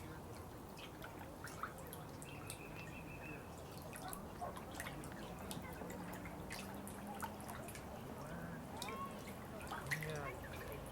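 Water dripping and trickling: scattered single drops falling over a steady low gurgle.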